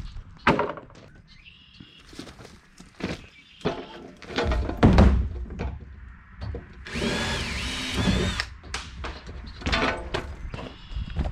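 Scattered knocks and thunks of hand work, a heavy thump about halfway in, and a power drill running for about a second and a half just past the middle, its whine wavering in pitch.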